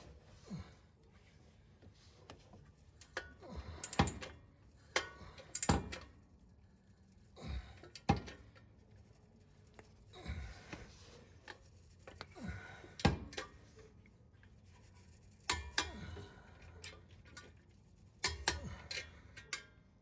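Scattered sharp metallic clicks and knocks of hand tools working on the exhaust underneath the car while the midpipe bolts are tightened, spaced irregularly a second or more apart.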